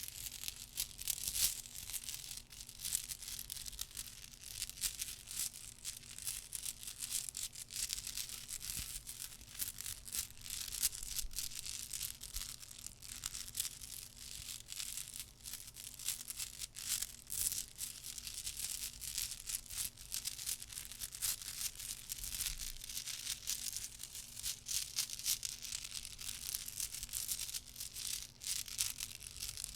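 Dense, irregular soft clicks with a scratchy, rustling edge, made close to the microphone as an ASMR clicking trigger.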